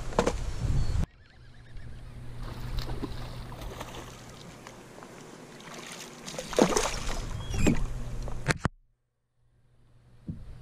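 Water and handling noises aboard a kayak on a river, with two sharp knocks about seven and eight seconds in. The sound drops suddenly after the first second and cuts out almost completely for about a second near the end.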